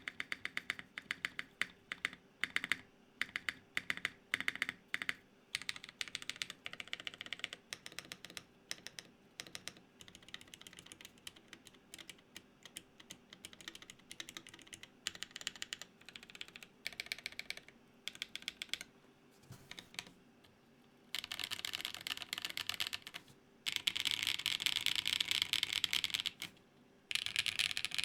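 Typing on a Gok 7V custom 75% mechanical keyboard, built plateless with lubed Everglide Dark Jade tactile switches and LINWORKS Purple keycaps. The key clacks come in irregular runs: spaced presses at first, softer in the middle, then fast dense runs of typing in the last third.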